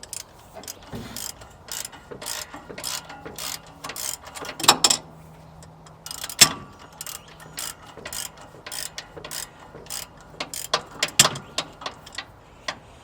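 Ratchet wrench on a socket and extension clicking in short, irregular strokes as it backs a spark plug out of a small-block Chevy 350 cylinder head, with a few louder clacks of the tool.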